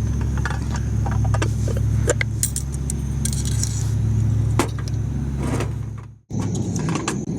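Light metallic clinks and clatter of cooking gear being handled over a steady low hum. The sound cuts out abruptly for a moment about six seconds in.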